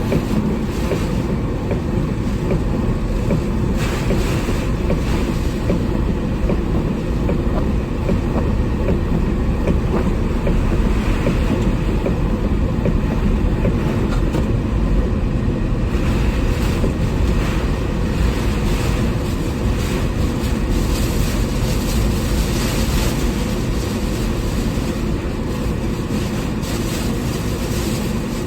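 Typhoon wind and rain making a loud, steady low rumble, with the wind buffeting the microphone.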